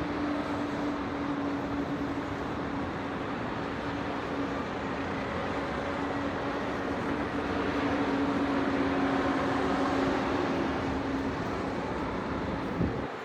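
Distant city traffic: a steady wash of vehicle noise with a constant low drone in it, growing a little louder past the middle, and a short sharp click near the end.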